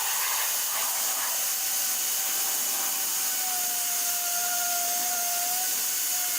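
A power tool running steadily: an even airy hiss with a faint whine that grows clearer about halfway through.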